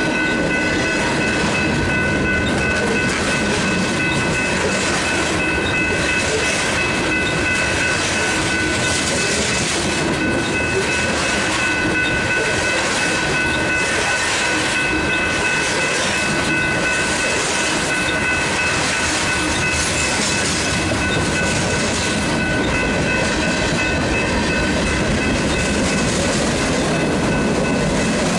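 Freight cars rolling past at close range, their wheels clattering repeatedly over the rail joints and crossing, with the crossing's General Signal electronic bells ringing steadily over the rumble.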